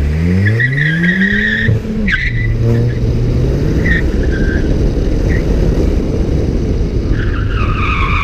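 2014 Ford Fiesta ST's turbocharged 1.6-litre four-cylinder, with an aftermarket cat-back exhaust, accelerating hard. Its revs climb to an upshift about two seconds in, then hold steady. Tyres squeal early on and again near the end as the car is pushed through the autocross course.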